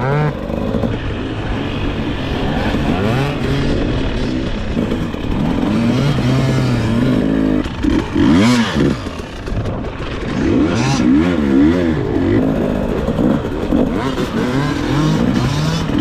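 Two-stroke dirt bike engine, a KTM 300 XC-W TPI, being ridden hard, its pitch rising and falling over and over with the throttle, with brief rushes of noise about halfway through.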